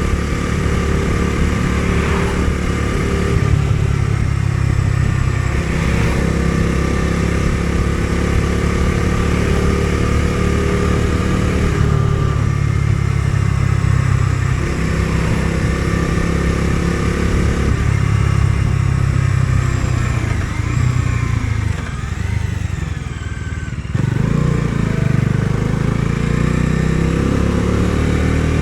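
Bajaj Dominar 250's single-cylinder engine running under way, its note shifting in steps as the rider changes throttle and gears. It eases off and goes quieter a little before the end, then picks up again with a rising pitch as it accelerates.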